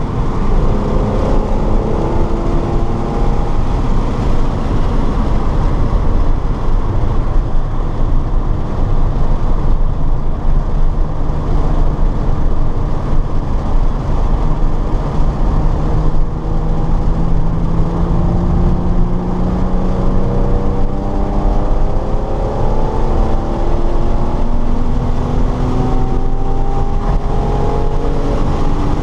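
Car engine running hard on a race circuit, its pitch climbing and dropping repeatedly with acceleration, lifts and gear changes, over constant road and wind noise.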